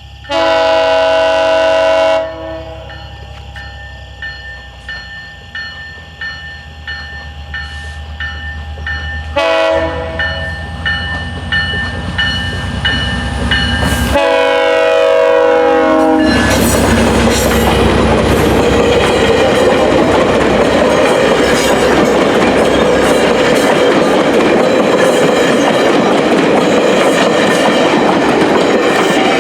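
GO Transit train led by an F59 diesel locomotive sounding its horn at a level crossing: a long blast, then a short one and another long one, with a crossing bell ringing steadily in between. From about the middle on, the train passes close by in a loud, steady rush of wheels clattering over the rail joints.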